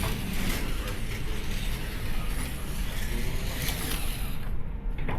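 Slot cars lapping a track, a steady whir of their small electric motors, gears and tyres.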